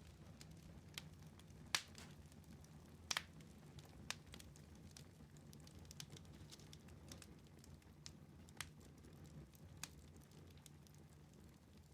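Wood fire in a fireplace crackling quietly, with scattered sharp pops (the loudest about two and three seconds in) over a faint, steady low rumble.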